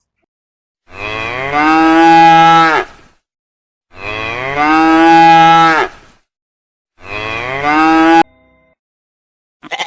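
Cow mooing three times: two long moos of about two seconds each, then a shorter one that cuts off abruptly.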